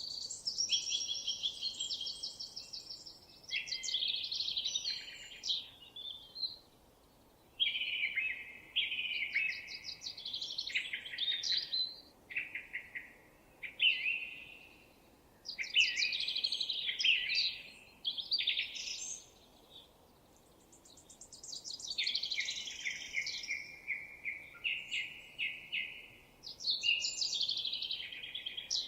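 Songbird singing long, varied phrases of rapid trills and chirping notes, high-pitched, in about four bouts separated by brief pauses.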